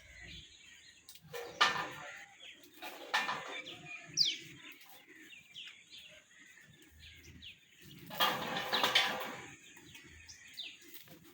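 Small birds chirping in short, high, falling notes. Three louder harsh bursts stand out, one about a second and a half in, one about three seconds in, and a longer one around eight to nine seconds in.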